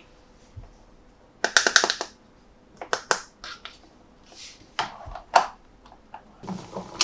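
Irregular clicks and short crinkling rustles of plastic toy packaging being handled and opened, in scattered clusters with pauses between them.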